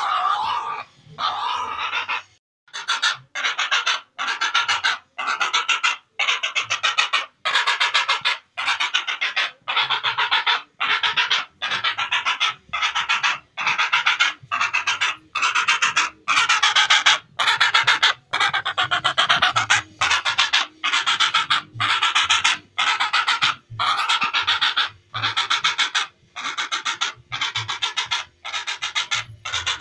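Heron (cangak) calls: harsh, raspy squawks repeated in a steady unbroken series, a little more than one a second, each about half a second long.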